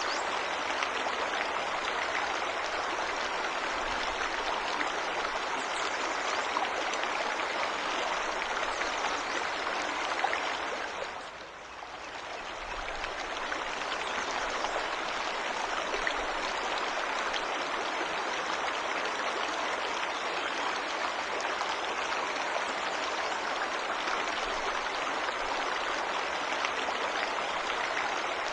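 Waterfall rushing steadily. It dips briefly about eleven seconds in, then swells back.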